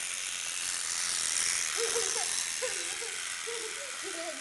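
Spring-wound clockwork motor of a Kovap tinplate Zetor 25 toy tractor running, a steady high-pitched rattling whirr of its gears.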